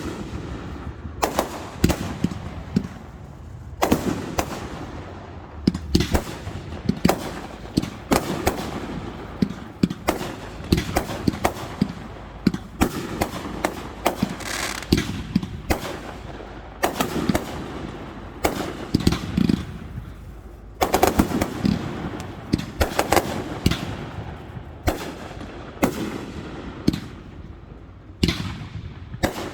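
Fireworks display: a steady stream of sharp bangs and booms at irregular intervals, several coming in quick runs, from shells bursting overhead.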